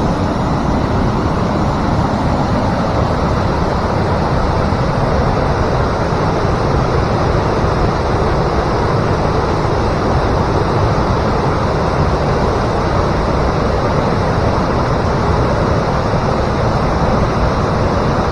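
Small waterfall pouring over rock into a stream: a steady rush of water.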